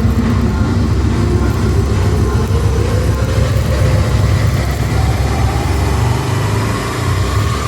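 Deep, steady mechanical rumble with a whine that rises slowly in pitch over several seconds; the lowest part of the rumble drops away near the end.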